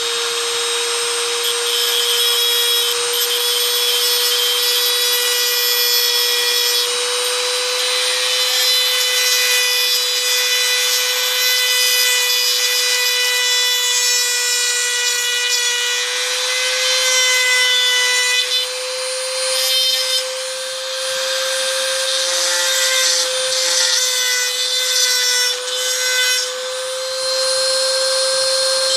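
High-speed rotary tool with a cutting bit grinding into a die-cast metal toy car body: a steady high motor whine over a scratchy grinding hiss. The whine's pitch creeps slightly upward, and the level dips a few times in the second half as the bit bites and eases off.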